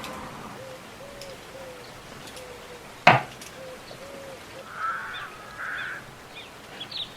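Faint, repeated low hoots from a bird, with a single sharp knock about three seconds in and a few short scraping sounds near the end.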